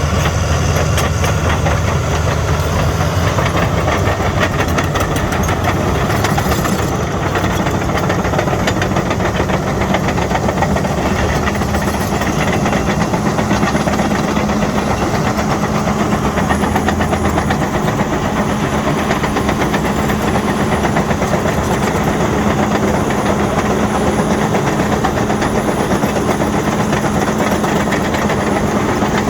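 Caterpillar D6N bulldozer working: its diesel engine runs under load while the steel tracks clank in a fast, continuous clatter. The engine note goes up a few seconds in and then holds steady.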